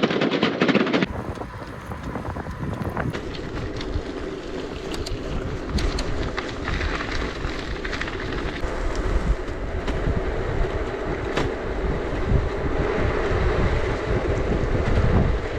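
Wind buffeting the microphone over the rumble of a gravel bike's tyres rolling on a gravel road, with now and then a sharp click or rattle from the bike.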